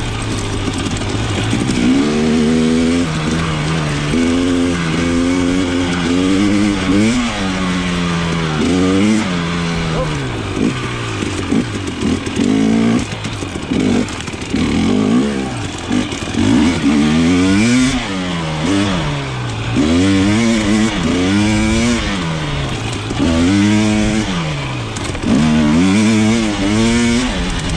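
KTM 300 XC two-stroke dirt bike engine, revving up and dropping back over and over as the throttle is worked on and off. The pitch rises and falls every second or two.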